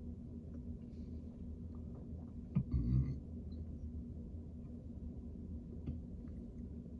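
Quiet room tone with a steady low hum. About two and a half seconds in there is a brief soft thump with a short rustle, handling noise.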